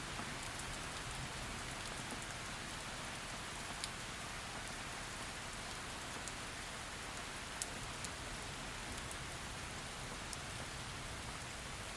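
Heavy rain falling steadily as an even hiss, with scattered individual drops ticking sharply, the most distinct about four and seven and a half seconds in.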